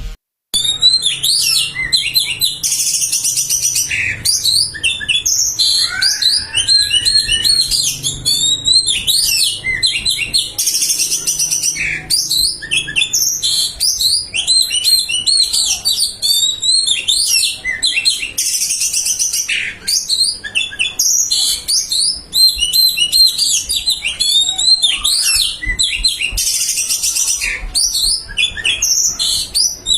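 An Oriental magpie-robin of the white-bellied form sings a long, rapid, varied song full of mimicked phrases. Several harsh, buzzy bursts come at intervals through it.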